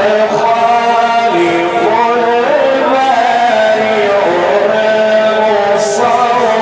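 A man's voice reciting the Quran in slow, melodic tajweed style, drawing out long held notes that rise and fall through an ornamented phrase.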